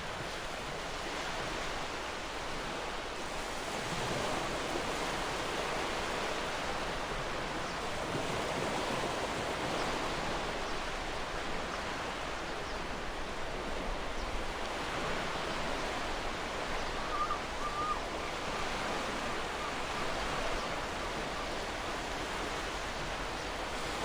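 Gentle ocean waves washing on the shore in a steady hiss of surf that swells and eases slightly, with a brief faint bird call about seventeen seconds in.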